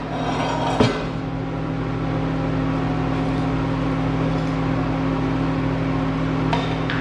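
Steady low electrical hum of shop equipment running, after a short burst of metal scraping and clatter that stops about a second in; a light tick near the end.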